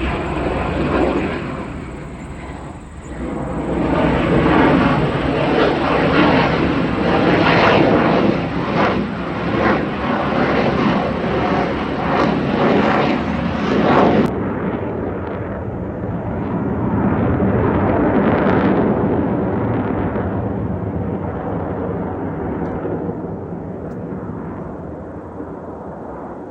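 Jet aircraft flying past, a loud engine rush that swells and fades. About halfway through it changes abruptly to a second, duller pass that slowly dies away.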